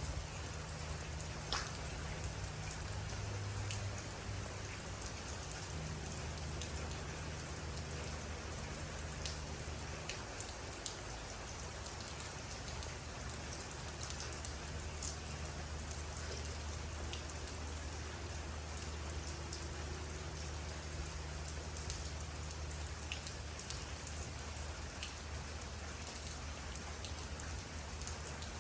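Steady rainfall, with single raindrops ticking sharply here and there over the even hiss. A low steady hum runs underneath.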